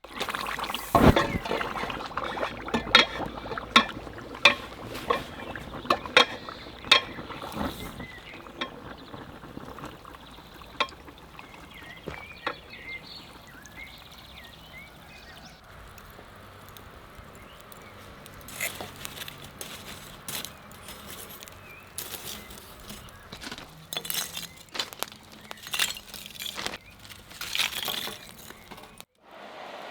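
A series of sharp clinks and knocks, thick over the first several seconds and again in the second half, with liquid being poured.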